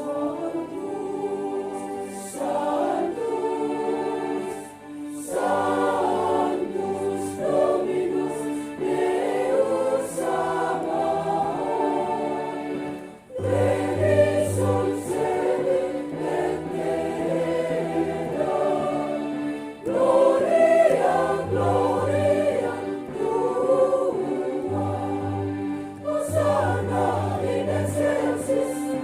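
A church choir sings a hymn over steady held bass notes, pausing briefly between phrases.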